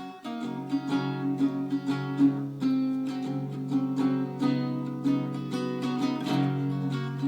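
Acoustic guitar strummed, a steady chord pattern of repeated strokes, as a song's instrumental intro.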